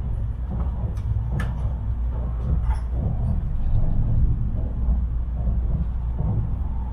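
Low, steady rumble of a Tokaido Shinkansen train running at speed, heard inside the passenger cabin, with a few faint clicks in the first three seconds.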